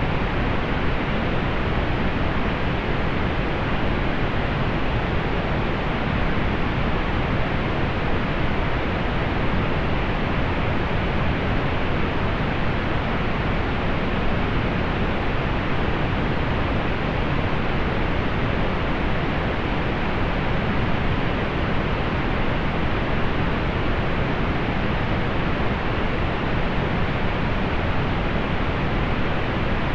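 Steady synthetic pink noise: an even hiss with its energy in the lows and mids, rolled off above about 4 kHz, unchanging throughout.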